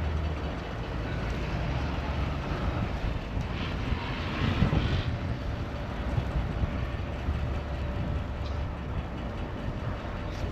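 Steady low rumble of outdoor city street noise, with a louder rush of noise about four to five seconds in.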